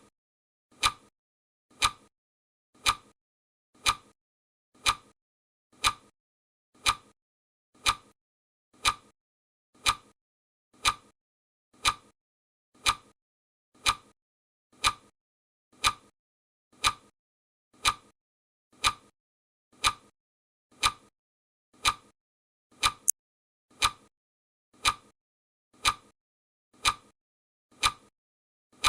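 Clock ticking sound of a countdown timer: one sharp tick each second, evenly spaced, with near silence between the ticks. There is one extra short click partway through.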